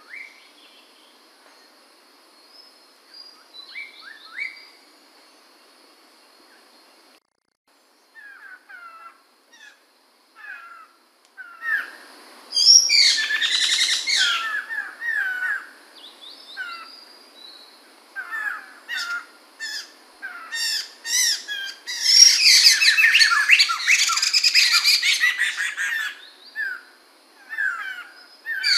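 Poksay mantel laughingthrush calling. A few short calls are followed by a run of quick chirps, then two loud stretches of dense, rapid chattering, the louder one about two-thirds of the way through.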